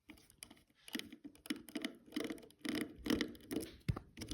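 Irregular light clicks, taps and scratches of small plastic objects being handled on a work surface close to the microphone.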